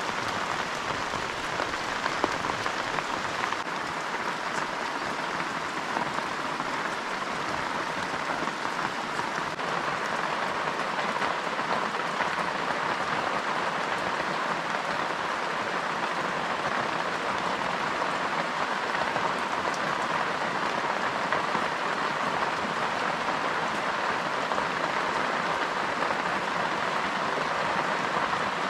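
Steady rain falling, a continuous even hiss without letup.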